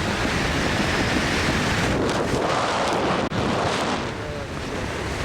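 Wind rushing hard over the microphone of a skydiver's camera: a loud, steady rush of air noise, with a brief dip about three seconds in.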